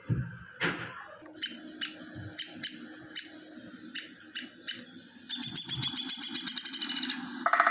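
Woodpecker pecking on wood: a string of separate sharp knocks, then a fast drumming roll lasting about two seconds.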